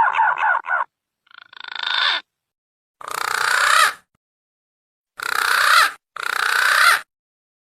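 Green pigeon (punai) calls played as a lure: a warbling whistled phrase trails off about a second in, followed by four separate rough, hoarse calls of about a second each with short pauses between.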